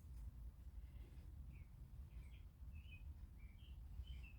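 Faint short bird chirps, several in a row starting about a second and a half in, over a low steady rumble.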